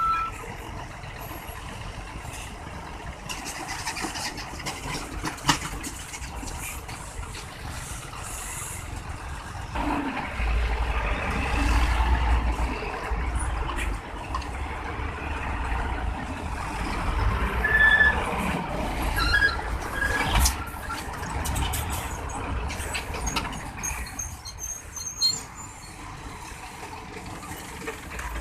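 Road traffic with heavy trucks passing. A loud, low engine rumble builds about ten seconds in and fades after about twenty seconds.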